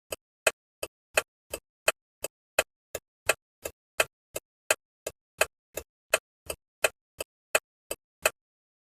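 A bus's turn-signal indicator ticking in an even tick-tock rhythm, close to three clicks a second, alternating louder and softer. It stops suddenly near the end.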